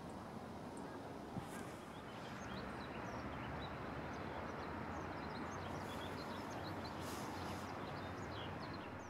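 Many short, high chirps from small birds, scattered and thickening after about two seconds, over a steady background hiss.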